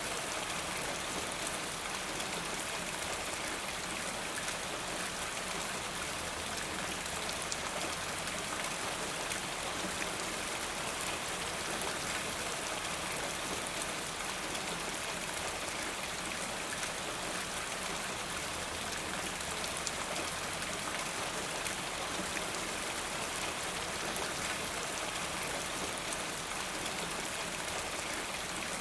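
Steady rain falling, a constant hiss scattered with small drop ticks.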